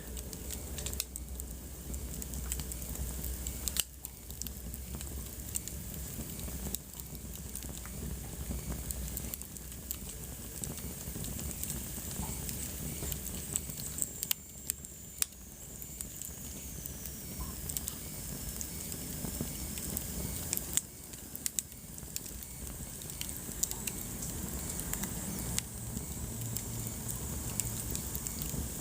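Wood fire burning in a fireplace: a steady low rustle of flames with frequent sharp crackles and pops. A faint high whistle slides down in pitch around the middle.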